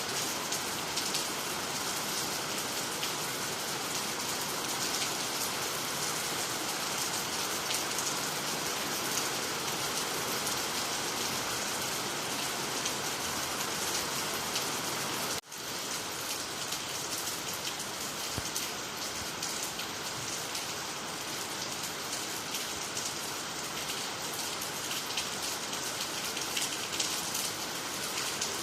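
Steady rain falling on water, trees and the ground, a dense even patter. About halfway through, the sound cuts out for a split second and then resumes.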